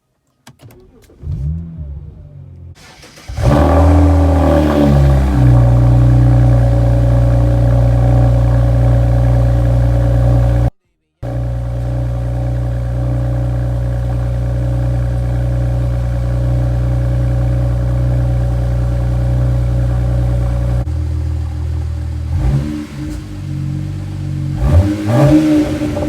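BMW E92 335i's N54 twin-turbo inline-six being revved: quieter at first, it climbs about three and a half seconds in and is held at steady high revs, cuts out briefly, then near the end gives short blips that rise and fall.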